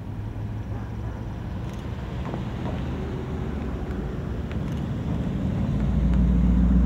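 Car engines running as cars pass along the street, a steady low hum. A louder, deeper engine rumble builds over the last second or two as another vehicle approaches.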